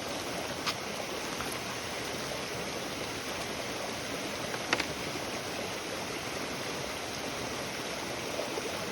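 Steady rushing background noise with two sharp pops, a small one about a second in and a louder one about halfway through, typical of firewood popping in a campfire.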